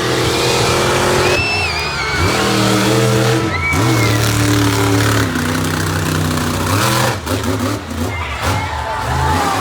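Monster truck engine revving hard, its pitch climbing and dropping over and over under heavy throttle. Between about seven and nine seconds in it turns choppy, with short stabs on the throttle.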